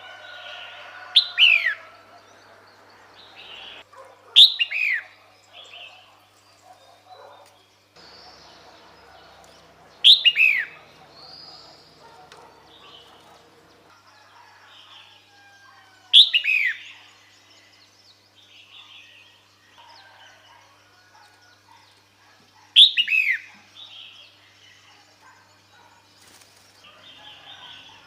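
Female red-whiskered bulbul calling: a short, sharp call falling in pitch, repeated five times several seconds apart, with softer chattering notes in between. It is the female's call to draw a male to her.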